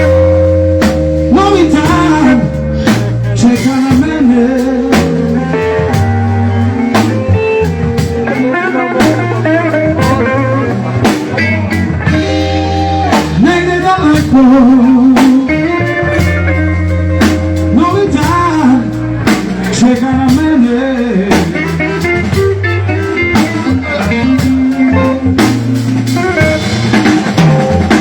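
Live blues band playing an instrumental passage: an electric guitar lead with bent, wavering notes over bass and a drum kit keeping a slow, steady beat.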